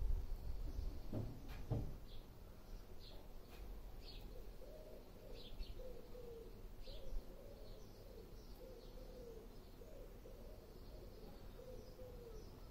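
Garden birds: short high chirps through the first half, and a low cooing that repeats in phrases about once a second from the middle on. Two soft thumps come near the start.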